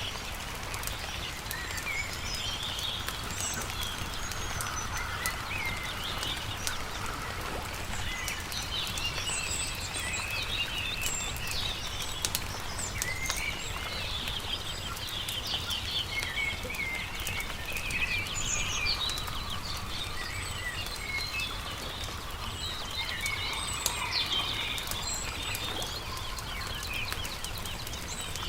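Several songbirds chirping and singing throughout, over a steady low rumble, with the sharp scattered pops of a crackling campfire.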